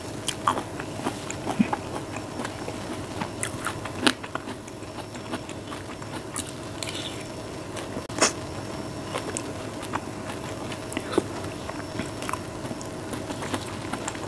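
Close-miked chewing of dragon fruit, with wet mouth clicks and smacks coming at irregular intervals. A steady hum runs underneath.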